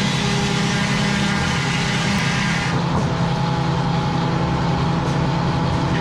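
Heavy vehicle engine running steadily at a constant pitch, with a rushing noise over it that eases about three seconds in.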